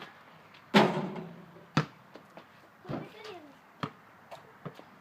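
A loud bang about a second in that rings on briefly, then a few sharp knocks and clicks.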